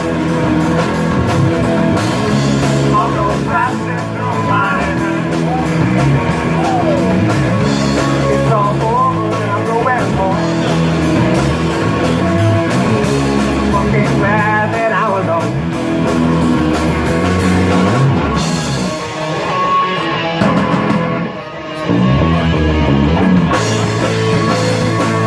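Rock band playing an instrumental passage: drum kit, bass and electric guitar, with bending lead guitar lines. Near the end the cymbals drop out and the music thins for a few seconds before the full band comes back in.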